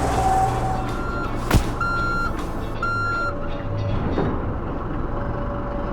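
Mini skid steer's engine running steadily while its reversing alarm gives three short beeps about a second apart, the first faint. A sharp click sounds between the first two beeps.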